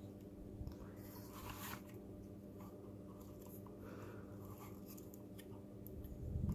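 Faint scraping, rubbing and small clicks of plastic robot body parts and a cable being handled and pressed into place, with a soft thump near the end.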